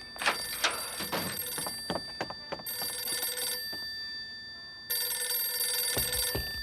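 Telephone bell ringing in two long rings with a short pause between them, mixed with several quick knocks and thumps.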